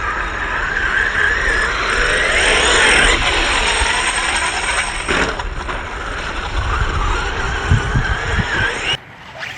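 Radio-controlled car's electric motor and gears whining, rising and falling in pitch as the throttle changes, with a few knocks near the end before it cuts off suddenly.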